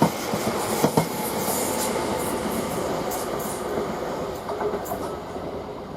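Greater Anglia Class 720 electric multiple unit pulling out, its wheels clicking sharply over rail joints at the start and about a second in, then a steady rolling rumble that slowly fades as it draws away.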